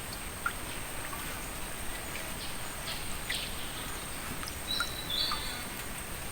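Outdoor ambience: a steady background hiss with a thin, constant high tone, and scattered short bird chirps and whistles, including two brief higher calls about five seconds in.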